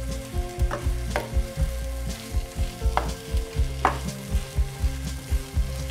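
Thick onion-tomato masala sizzling in oil while a wooden spatula stirs it round the pan, with several sharper scrapes against the pan surface. Background music with held low notes plays underneath.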